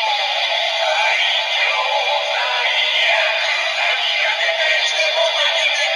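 Yo-kai Watch Dream toy playing a medal's summoning song through its small speaker: music with electronic, synthetic-sounding singing, thin and without bass.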